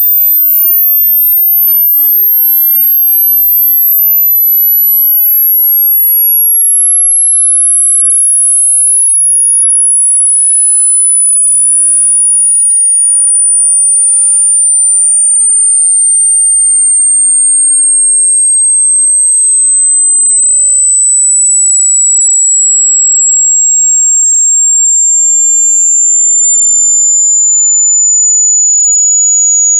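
A single loud, very high-pitched pure electronic tone that falls slowly in pitch in small steps. It is a synthetic pitch sweep played as a so-called ultrasound meant to irritate cats and dogs, though it is within human hearing.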